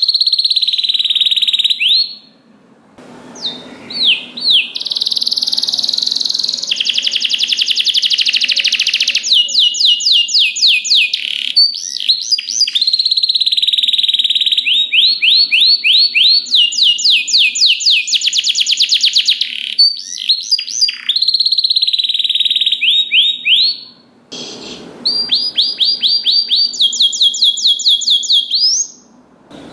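Domestic canary singing a long song of fast rolling trills, held high whistled notes and quick sweeping notes, pausing briefly about three seconds in and again near twenty-four seconds.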